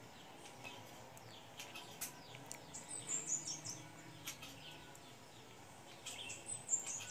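A small songbird singing a quick run of high notes that step downward, twice: about three seconds in and again near the end. Faint scattered clicks sound underneath.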